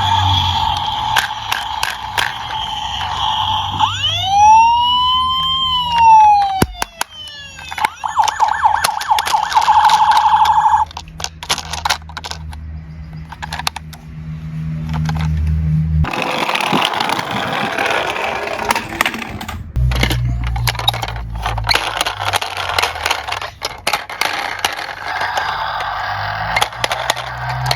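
Police siren sounds: a wail that rises and falls in pitch, then a fast pulsing warble, over repeated sharp clicks and clatter from small die-cast toy cars.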